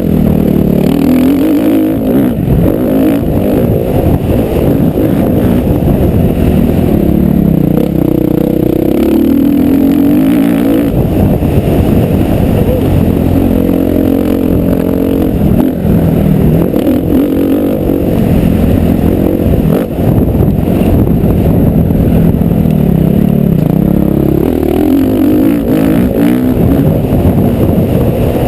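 Motocross bike engine at race pace, its pitch climbing and dropping again and again as the throttle is opened and shut around the track, heard loud and muffled with a rumble of wind and bumps.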